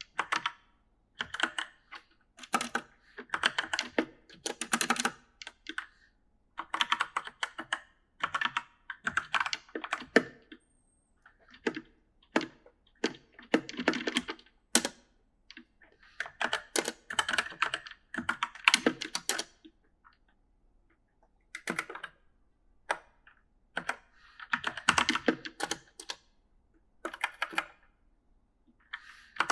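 Typing on an E-Element mechanical gaming keyboard: rapid clacking keystrokes in uneven bursts of a second or two, with short pauses between them.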